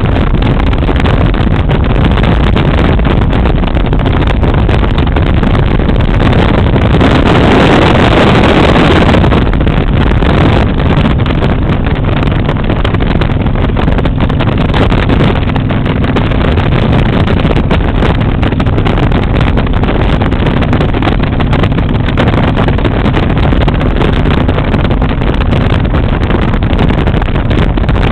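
Motorcycle engine running steadily at road speed, with wind buffeting the microphone; the wind noise swells louder for a couple of seconds about a quarter of the way in.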